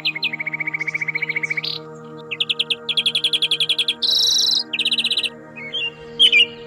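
A small songbird singing in fast trills: a rapid run of repeated chirps, then after a short pause several more quick series of higher chirps, ending in a few scattered separate calls. Steady low tones run underneath.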